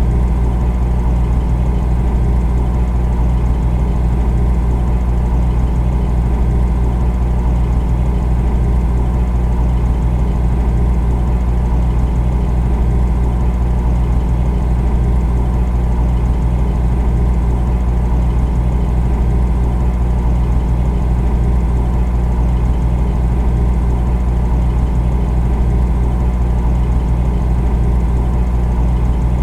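Refrigerator running: the steady low hum of its compressor.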